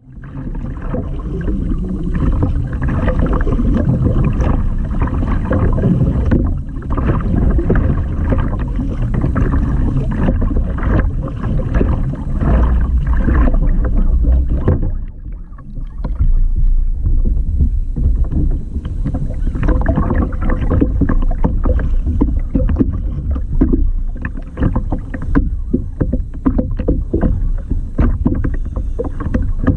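Seawater splashing and sloshing around a fishing kayak, a loud, uneven rush with a brief lull about halfway through.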